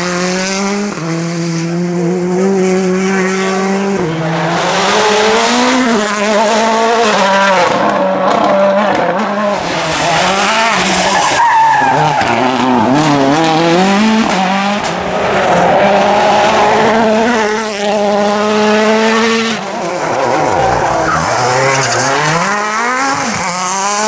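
World Rally Car engine revving hard up and down through the gears, its pitch climbing and dropping repeatedly as the car brakes and accelerates through a sequence of corners.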